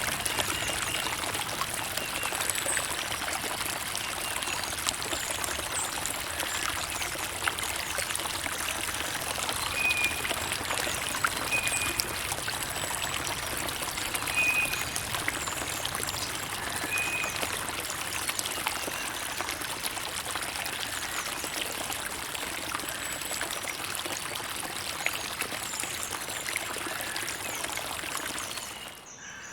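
Creek water running and trickling steadily, full of small splashes, dropping off sharply in level shortly before the end.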